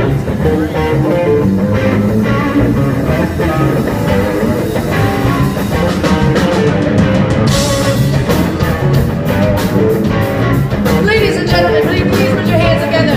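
Live rock band playing: electric guitar over bass and drums, with a cymbal-heavy steady beat from about seven seconds in.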